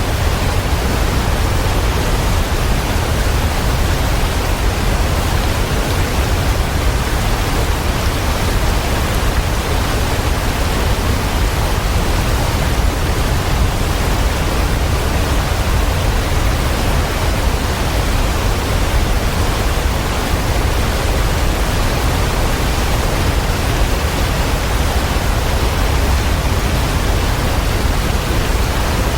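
Waterfall: a steady, unbroken rush of falling water, heaviest in the low rumble, with no other sound standing out.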